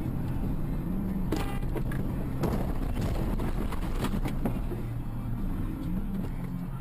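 Car engine and road noise heard from inside a moving car, the engine note stepping up and down. A few short clattering or knocking sounds come about a second and a half in, again near two and a half seconds, and around four seconds.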